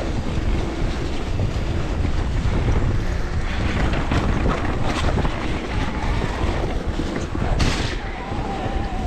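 Wind buffeting the microphone of a mountain bike riding a dirt trail, with tyre noise and short rattles and knocks from the bike over the ground.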